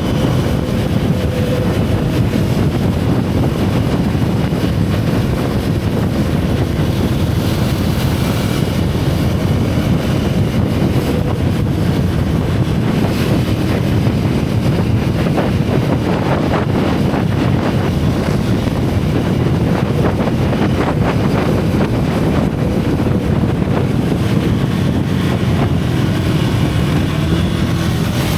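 Single-cylinder motorcycle engine and exhaust running steadily under way, with wind rushing over the microphone.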